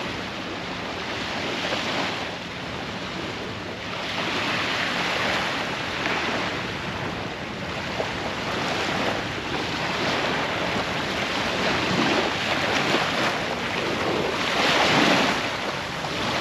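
Ocean surf washing in, swelling and easing every few seconds, with wind on the microphone.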